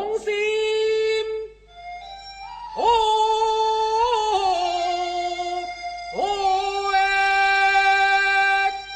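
Teochew opera singing: three long held notes, each entered with a slide up in pitch, set apart from the full accompanying ensemble.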